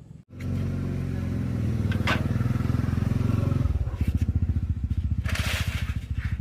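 A small combustion engine starts suddenly and runs with a steady pulsing beat; about halfway through, its pitch drops a step and it settles into a lower, steadier run. A short hiss comes about five seconds in.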